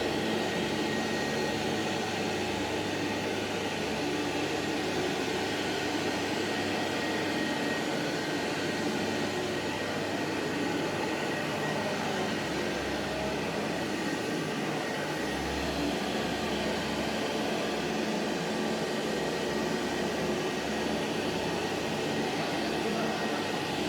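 Hamra HM61 vacuum cleaner running steadily, a constant airy motor noise with a faint high whine.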